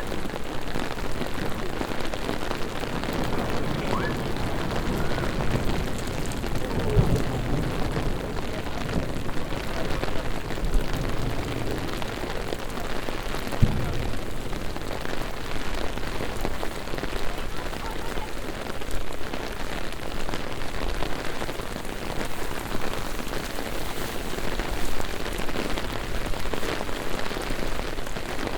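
Heavy rain falling on city pavements as a steady, even hiss, with a couple of brief low thumps about a quarter and half of the way through.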